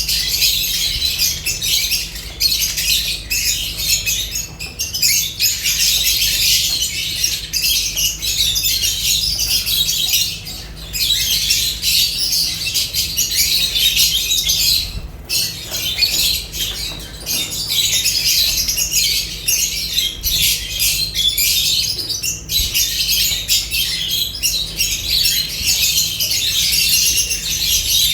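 A group of lovebirds chattering and squawking without pause, a dense, high-pitched mass of overlapping calls, briefly thinning twice.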